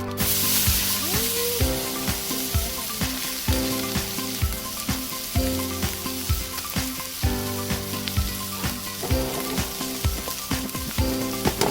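A steady sizzling hiss that starts suddenly, over background music with a regular beat.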